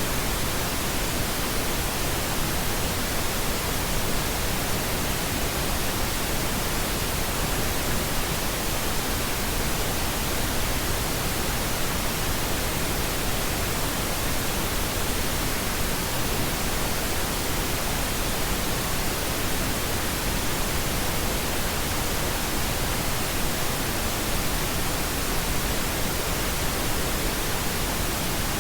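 Steady pink noise: an even, unbroken hiss spread across the whole range from low to high, with no change in level.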